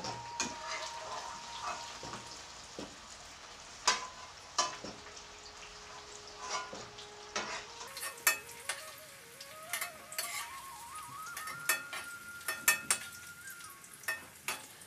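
Boiled potatoes sizzling in hot oil in an iron karahi, with a metal spoon clicking against the pan and a steel bowl as the fried potatoes are lifted out.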